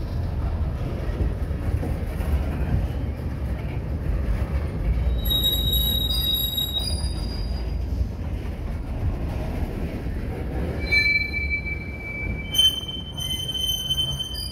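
Freight train cars (covered hoppers and a tank car) rolling past: a steady low rumble of steel wheels on rail, with high-pitched wheel squeal about five seconds in and again from about eleven seconds on, and one short sharp knock near the end.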